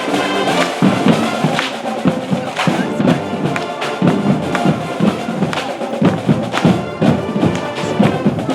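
High school marching band playing: brass over a steady drum beat.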